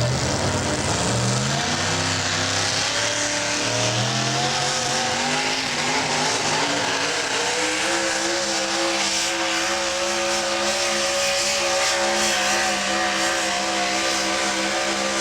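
Super modified four-wheel-drive pulling truck's engine running at high revs under full load during a pull. Its pitch climbs over the first several seconds, then holds high and steady.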